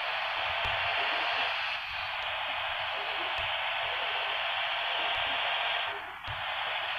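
Steady, loud static-like hiss, with a brief dip about six seconds in.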